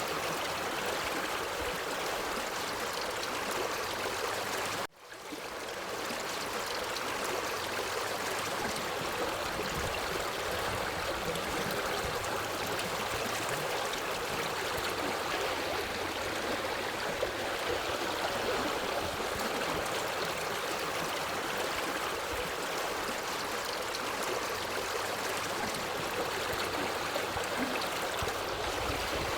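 Forest stream flowing steadily over rocks, a continuous rushing and gurgling of water. About five seconds in the sound cuts out abruptly and fades back up over about a second.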